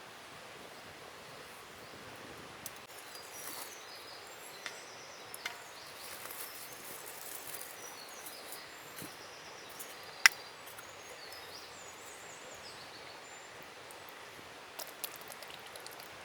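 Forest ambience: a steady rush of flowing river water with small birds chirping short phrases now and then. Scattered sharp clicks and taps break in, with one louder click about ten seconds in.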